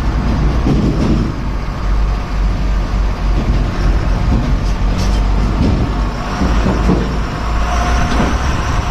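Truck running downhill on a mountain road: a steady deep engine and road rumble.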